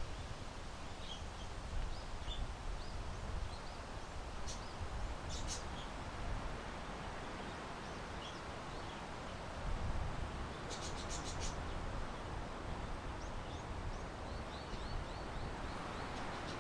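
Small birds chirping in short, scattered high calls over a steady rush of wind on the microphone, with a few sharp clicks, twice in the first half and a quick cluster past the middle.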